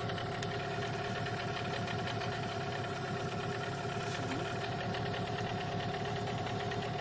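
Boat outboard motor running steadily at an even pitch, a new engine being run in.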